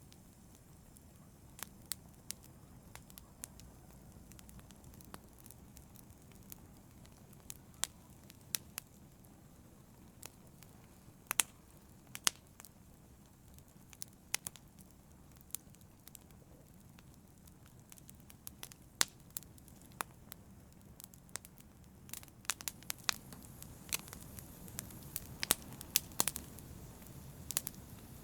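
Wood fire burning in a fireplace: irregular sharp crackles and pops over a low, steady rumble of flame, with the pops coming more often near the end.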